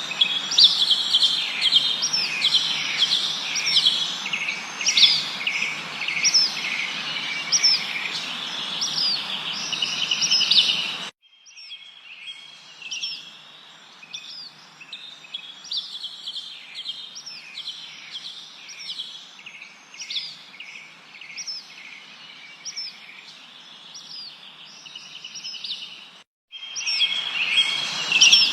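Small birds chirping and twittering in quick repeated notes, many of them short upward sweeps, over a steady background hiss. The sound cuts out abruptly about eleven seconds in and comes back quieter, then cuts out briefly again near the end before returning louder.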